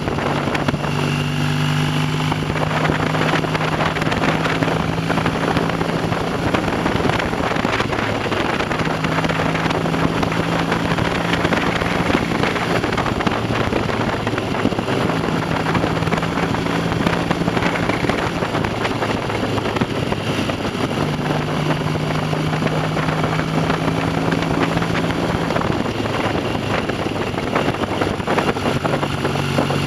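Classic motorcycle engine running on the road, its exhaust note holding a steady pitch for several seconds at a time, falling away and returning, over a constant rush of wind and road noise.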